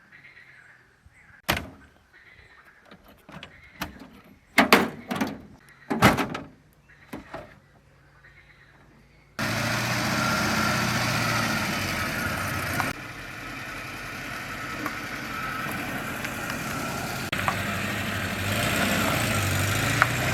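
A few scattered knocks and thuds. About halfway through, a loud, steady engine-like running noise with a low hum starts abruptly and carries on to the end.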